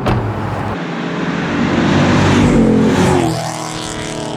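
Ford Mustang GT's 5.0 V8 through an MBRP Race cat-back exhaust, the engine note climbing for a couple of seconds and then dropping sharply about three seconds in.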